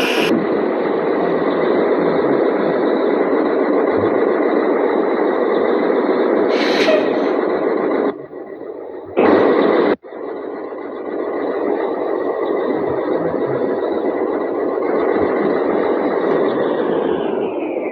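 Steady static hiss, like an untuned radio, with the high end cut off sharply. It drops out suddenly about eight seconds in, returns as a short louder burst, then runs steady again and fades away near the end.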